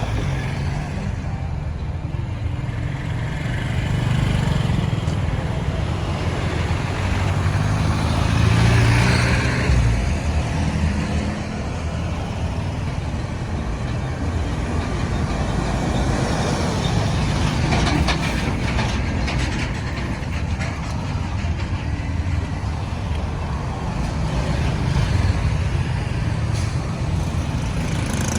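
Busy road traffic: the engines of trucks, cars and motorbikes running, mixed with road noise, swelling for a while about eight to ten seconds in.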